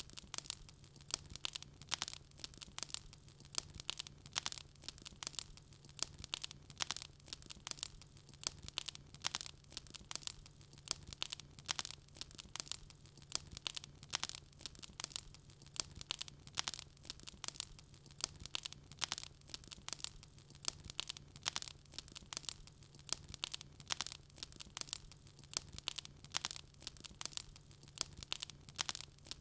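Wood fire burning with dense, irregular crackling and popping, several small snaps a second, over a steady low hum.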